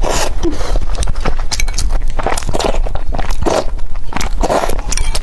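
Close-up chewing and biting into youtiao (Chinese fried dough stick): a run of irregular crisp crunches and wet mouth sounds.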